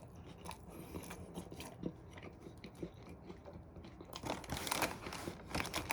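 A person chewing a mouthful of burger close to the microphone: soft wet mouth clicks and smacks, growing louder and busier about four seconds in.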